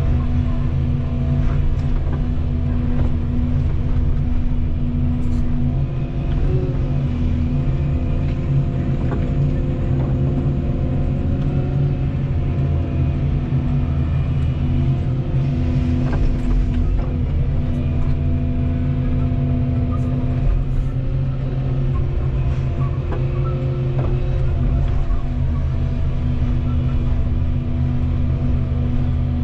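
Volvo 235EL excavator's diesel engine running steadily, its note dipping and recovering a few times as the hydraulics take load, with a few faint knocks.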